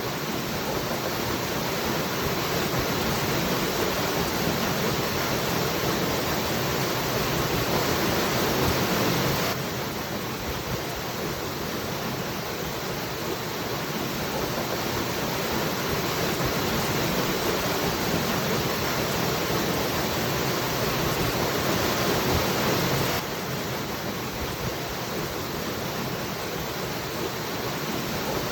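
Waterfall rushing steadily, an even wash of water noise with no breaks. The level drops abruptly and slightly about ten seconds in and again near the end.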